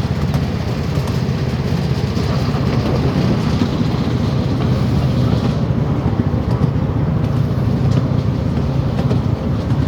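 A train in motion, heard from on board: a steady low rumble of the wheels running on the track, with faint scattered clicks.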